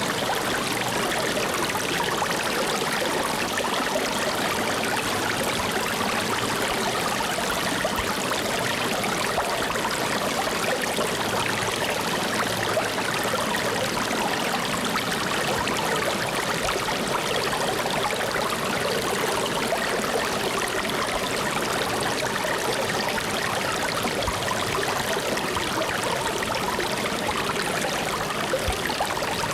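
Steady rush of flowing water, like a stream running over stones, even and unbroken throughout.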